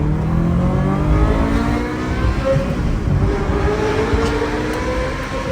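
Ferrari F355's V8 engine accelerating hard, its pitch rising in repeated sweeps, heard from inside the open-top car. Its sound is a high howl.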